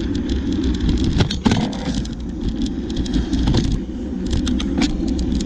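Steady low rumble of riding a bicycle, wind and road noise, with many scattered sharp clicks and rattles.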